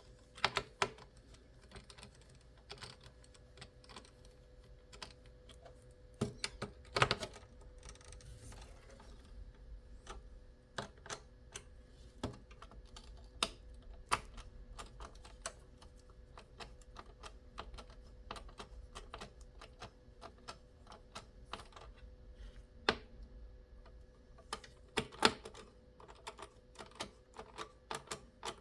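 Irregular light clicks and taps of small hard plastic and metal computer parts being handled and fitted, with a few louder clusters of knocks, over a faint steady hum.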